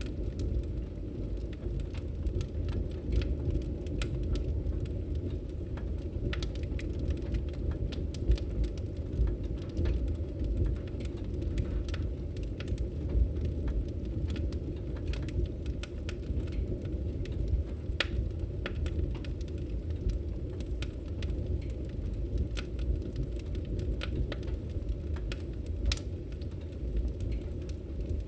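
Wood fire crackling in a fireplace: a steady low rumble of flame with frequent irregular sharp pops and snaps.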